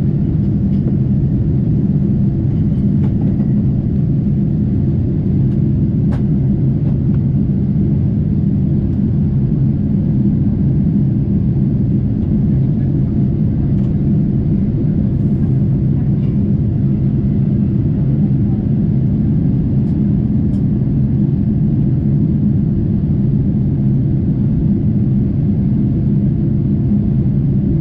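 Steady low rumble inside the cabin of a Boeing 747-8 in flight: engine and airflow noise heard at a window seat over the wing.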